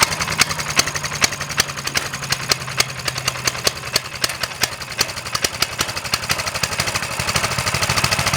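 Coleman CT200U mini bike's 196cc single-cylinder four-stroke engine idling just after being pull-started, with a quick, even putter of firing pulses. A little before halfway through, the idle settles slightly lower.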